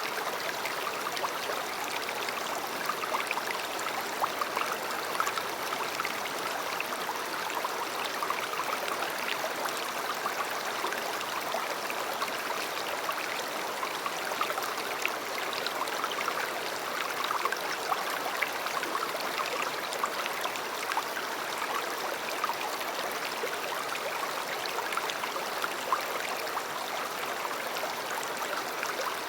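River water flowing steadily: an even rush of running water with many small splashes and gurgles.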